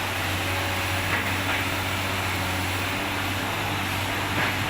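Isuzu 6BG1 six-cylinder diesel engine in an excavator running steadily with a low, even hum, with two faint brief noises on top.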